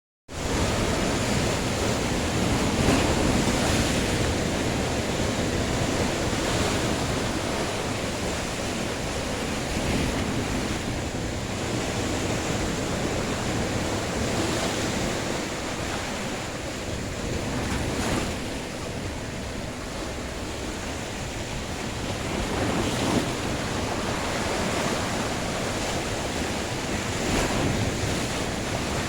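Sea waves washing in and breaking, swelling every few seconds over a constant surf rush, with wind across the microphone.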